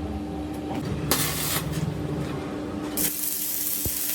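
A short spraying hiss about a second in, then a steady hiss that starts about three seconds in, over a steady machine hum that fades as the second hiss begins.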